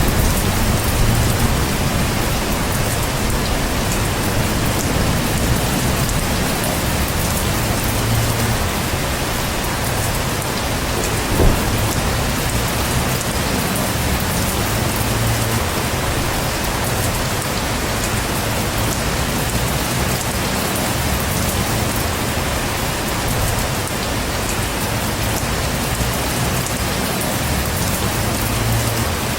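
Heavy rain falling steadily, with low rumbles of thunder swelling now and then. A single sharp knock stands out about eleven seconds in.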